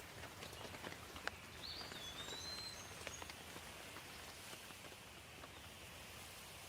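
Light rain falling steadily with scattered drips, and a songbird giving a short, high whistled phrase about two seconds in.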